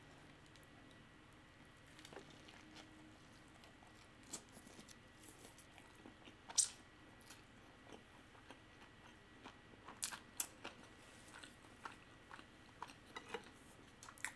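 Close-miked chewing of a mouthful of salmon sushi roll: scattered soft, wet mouth clicks and smacks, loudest about six and a half and ten seconds in.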